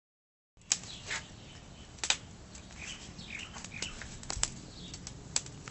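Small birds chirping in short calls, with several sharp clicks, the loudest sounds, over a steady low background noise.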